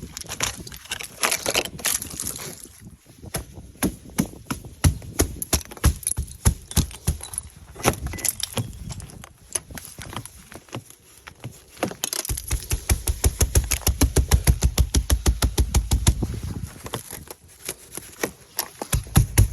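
Ice being scraped and chipped off a truck in quick repeated strokes, several a second, with a low rumble underneath at times.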